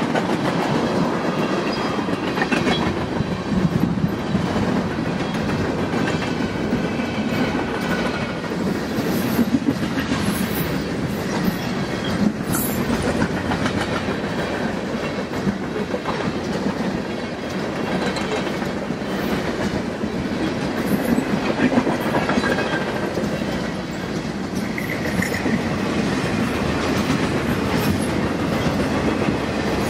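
Freight cars rolling past on steel wheels, clacking steadily over the rail joints, with a faint high wheel squeal here and there.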